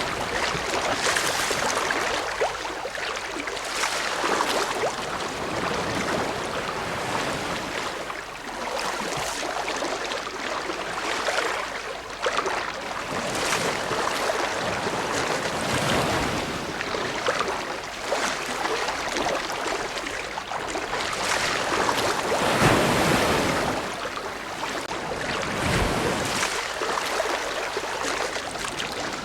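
Ocean waves: a continuous rush of surf that swells and eases every few seconds, with a stronger surge about three-quarters of the way through.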